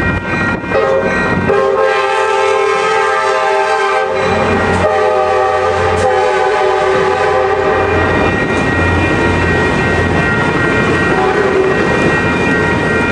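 Passenger train's air horn sounding for a grade crossing: a short blast, then a long one, a brief break about four seconds in, and another long blast. After that comes the rumble and clatter of bilevel coaches rolling past, with the crossing bell ringing steadily throughout.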